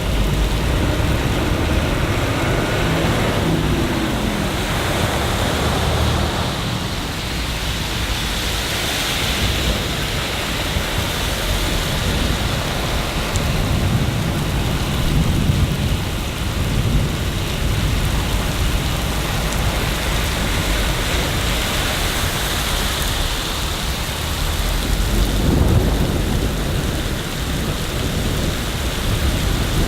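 Steady rain with low rolls of thunder that swell and fade a few times.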